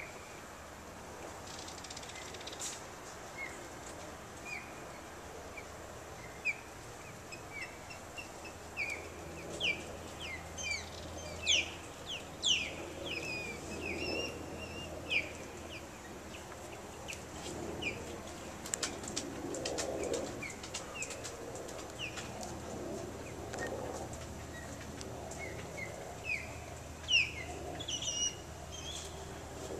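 Birds calling: many short, quick chirps that drop in pitch, busiest in the middle and again near the end. Under them runs a steady low hum.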